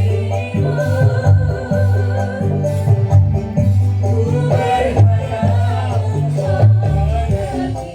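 Live Javanese dangdut band music with a steady rhythmic bass line and a wavering high melody, with a voice singing over part of it.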